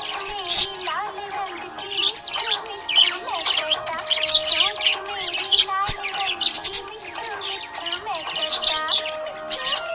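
Budgerigar chirping and chattering rapidly and continuously, over a background song with held melodic notes.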